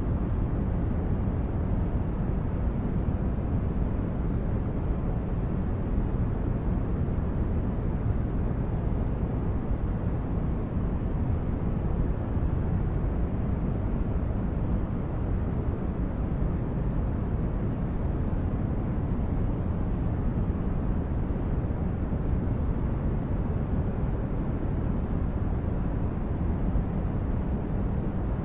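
Sci-fi spaceship interior ambience: a steady, unchanging low rumble of brown-noise-like hum.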